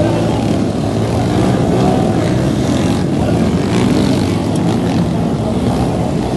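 Motocross bike engines running steadily, a loud, continuous motor sound.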